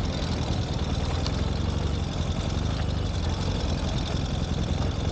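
Ural sidecar motorcycle's flat-twin engine running steadily at low speed, a low, even thrum.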